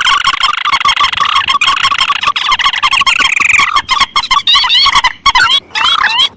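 Recorded lure calls of rice-field rails (mandar and tikusan), played loud. A fast, unbroken run of repeated call notes turns, a little past halfway, into looping rising-and-falling notes.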